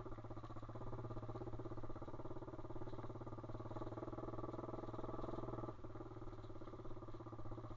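Pit bike's single-cylinder engine running at steady revs while riding, its note easing briefly about six seconds in.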